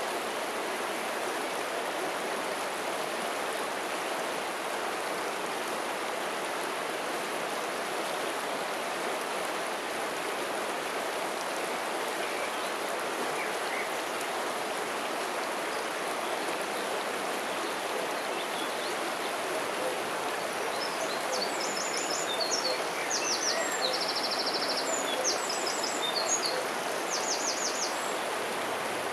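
River water flowing steadily. From about twenty seconds in, a small bird joins with a run of high, rapid chirps and trills.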